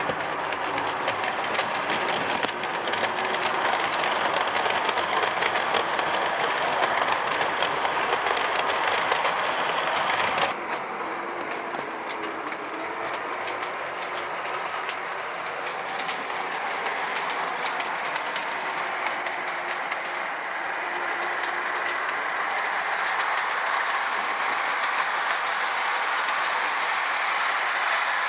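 O scale model train running on two-rail track: a scratch-built Santa Fe Mikado locomotive on a Lionel Berkshire chassis pulling metal-sided Walthers passenger cars, the wheels rolling and clicking over the rails with a faint motor hum. The sound drops suddenly about ten seconds in, then slowly grows louder again.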